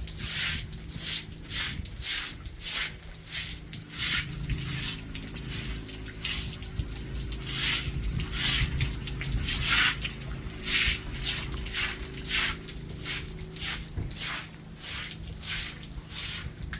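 Broom sweeping a wet surface in steady strokes, about two swishes a second, over a faint steady hum.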